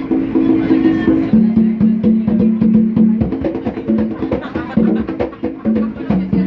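Subway drummers playing a fast rhythm of sharp stick hits, with held low pitched notes that start and stop under the beat.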